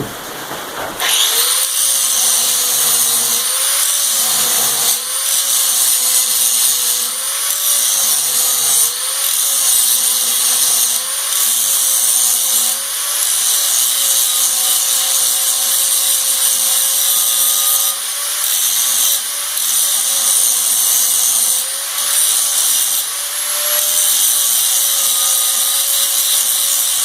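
Grinder taking metal off the steel plate on a manual tire changer's bead tool, starting about a second in: a motor whine that dips and wavers as it bears into the metal, over the hiss of grinding.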